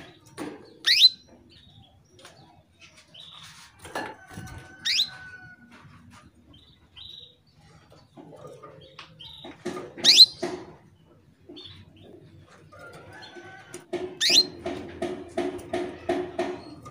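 Female canary giving short, sharp, sweeping calls, four in all, spaced four to five seconds apart. These are the calls a female in breeding condition makes to draw a male into song. Near the end a quick run of low pulses, about five a second, plays under the last call.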